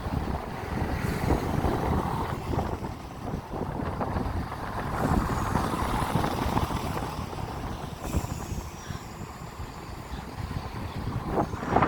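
Strong gusting wind buffeting the microphone, over the low rumble of a train. Faint thin high squeals come through about halfway, and a few knocks come near the end.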